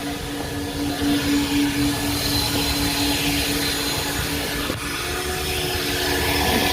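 Coin-operated car wash vacuum running: a steady rush of air with a whine whose tone shifts about two-thirds of the way through, with a faint click at that point.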